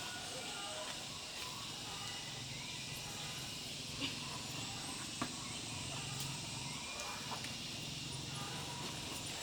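Steady outdoor ambience of insects chirring, with a few faint sharp clicks about four and five seconds in.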